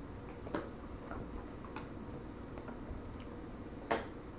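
Person chewing pizza with the mouth full: scattered soft mouth clicks and smacks, with one sharper click near the end.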